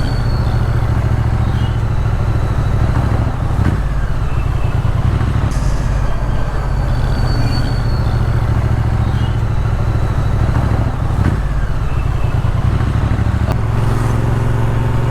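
Triumph Street Twin's 900 cc parallel-twin engine running at a steady cruise while riding, with wind and road noise over the exhaust note.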